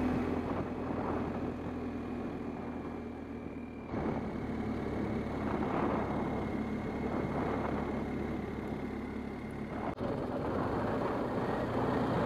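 BMW R1250GS boxer-twin engine running under way, with wind and road noise on the helmet-mounted camera. The sound shifts abruptly about four seconds in and again about ten seconds in.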